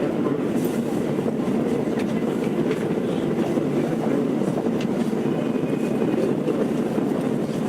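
Steady hum and rush inside a stationary Tokyo Metro 02 series subway car standing at a platform, with a few faint clicks.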